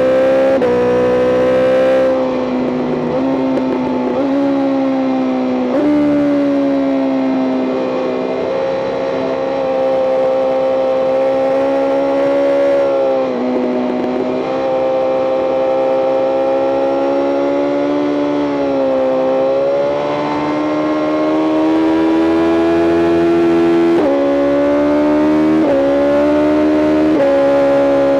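A BMW M 1000 RR's 999 cc inline-four engine running hard at high revs, heard from on board the bike. The pitch climbs under throttle and dips sharply at each gear change, with three quick upshifts in a row near the end.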